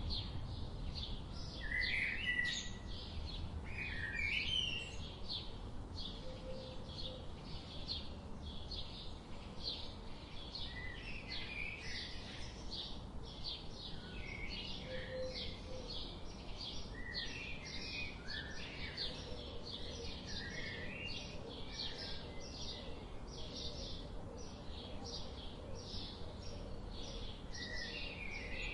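Birds singing: a steady stream of quick high chirps, several a second, with other birds' lower warbling phrases in between, over a soft steady background rumble.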